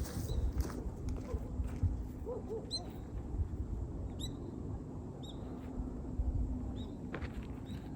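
Birds calling outdoors: short high chirps, about one a second, over a low steady rumble.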